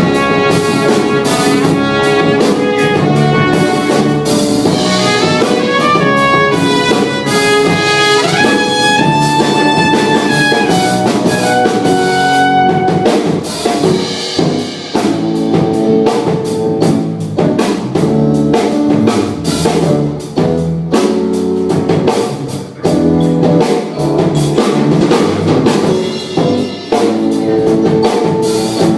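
Live band playing an instrumental break: drum kit keeping a steady beat under a lead melody for about the first twelve seconds, then the band carrying on with the rhythm and chords.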